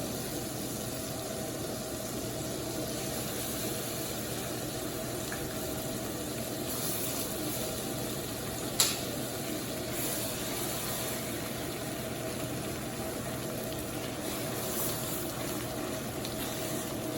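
Tilapia frying in butter in a cast-iron skillet: a steady sizzle, with a single sharp click about nine seconds in.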